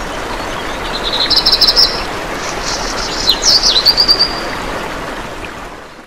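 Birds chirping, with a quick trill about a second in and more chirps and a trill around three to four seconds, over a steady rushing background noise that fades out near the end.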